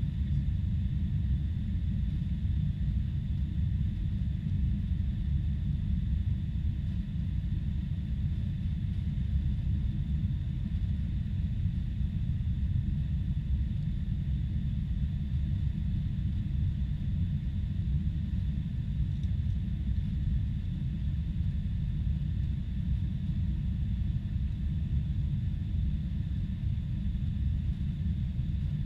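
Steady low rumble of a Boeing 747-400 in operation, unchanging throughout, with faint thin high tones running over it.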